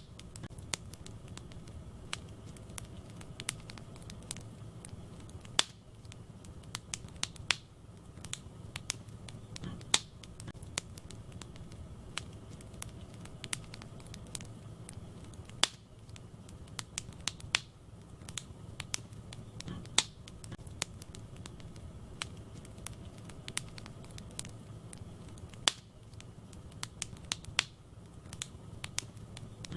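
Wood fire burning in a fireplace: irregular crackles and sharp pops over a low steady rumble, with a louder snap every few seconds.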